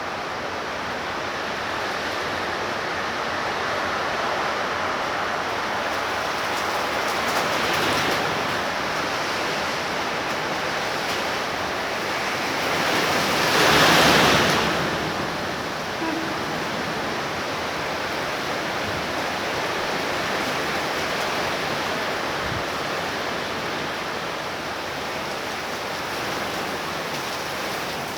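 Torrential rain pouring down steadily as an even hiss, swelling louder for a couple of seconds about halfway through.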